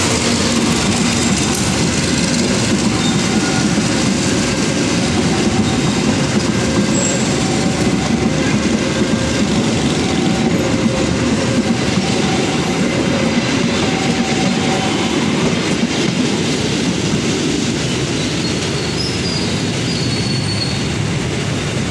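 Passenger train passing close at a level crossing: the diesel locomotive, then a long run of coaches rolling by, with steady, loud noise of wheels on the rails. The sound eases slightly near the end as the last coaches clear.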